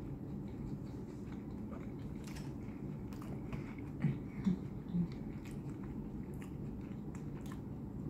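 Close-up mouth sounds of a person chewing cooked shrimp: scattered wet clicks and smacks over steady low background noise, with three short low bumps about four to five seconds in.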